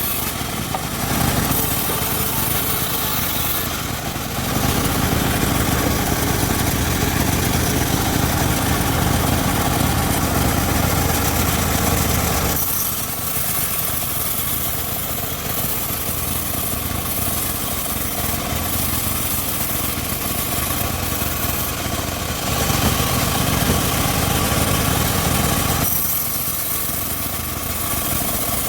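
Homemade engine-driven circular sawmill running steadily, with long stretches where its sound swells louder and deeper, twice.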